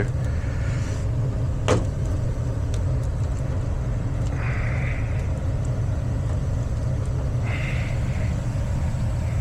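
Gas furnace running with its blower on, a steady low rumble of the motor and moving air, with a click about two seconds in and two brief soft hisses.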